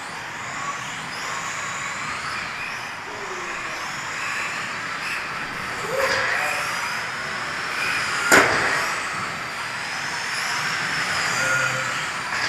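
Several battery-powered 1/12-scale RC race cars lapping a track, their electric motors whining in high pitches that rise and fall as they speed up and slow down. There is one sharp knock about eight seconds in.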